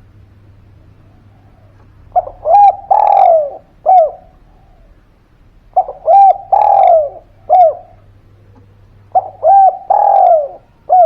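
A spotted dove cooing three times, each phrase two short coos, a longer falling coo and a short closing coo, repeated every three and a half seconds or so.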